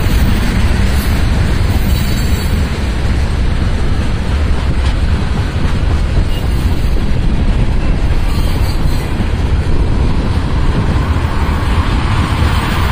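Freight train tank cars rolling past: steady, loud noise of steel wheels running on the rails.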